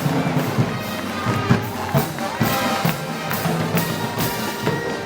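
Live band music with brass and drums playing to a steady beat.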